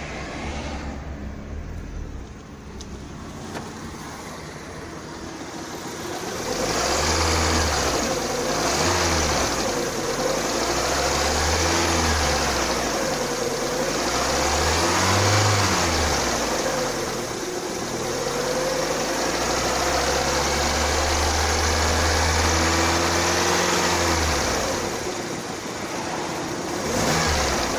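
A Lada Kalina 2's 21126 engine, hot, being driven under load. Quieter for the first six seconds, then it revs up and down over and over, its pitch rising and falling.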